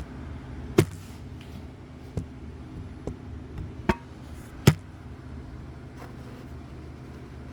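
Several sharp metallic clinks and knocks from handling engine parts and tools, about five of them, the loudest a little past the middle, over a steady low hum.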